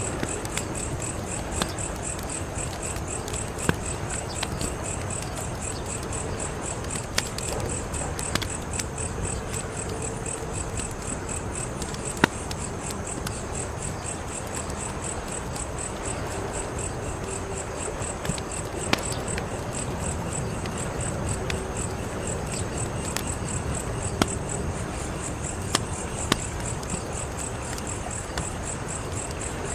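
Wood fire crackling over a steady low rumble, with scattered sharp pops, the loudest about twelve seconds in. Crickets chirp steadily in a high, evenly pulsing trill.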